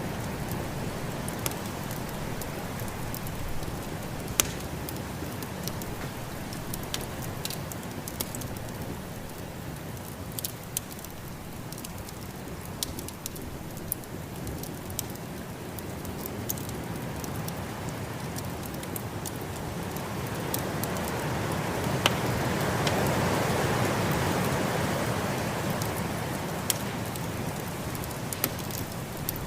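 Wood fire crackling in a fireplace, with irregular sharp pops, over the steady rush of a snowstorm wind. The storm noise swells for a few seconds about two-thirds of the way through, then eases.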